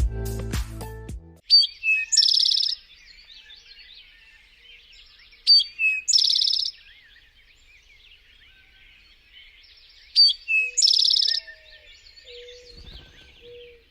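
Eastern towhee singing its "drink-your-tea" song three times, about four seconds apart: two short clear notes, high then lower, followed by a fast trill each time.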